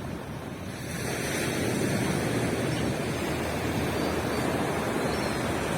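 Ocean surf on a beach: a wave breaks about a second in and its rush of water keeps going steadily.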